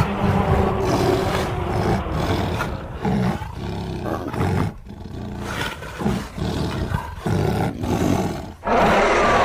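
Sound-designed giant jaguar creature voice, layered from big-cat roars: a series of roaring growls broken by short pauses, with a new loud roar starting near the end.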